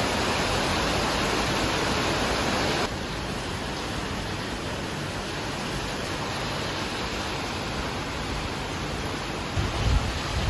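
Heavy rain pouring down in a thunderstorm, a steady hiss that drops abruptly to a lower level about three seconds in. A few low thumps come near the end.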